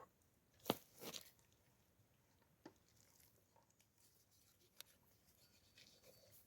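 Scattered knocks and crunches of food being handled and cut during cooking prep. The loudest is a sharp knock under a second in, followed by a softer crunch, with a few lighter taps later.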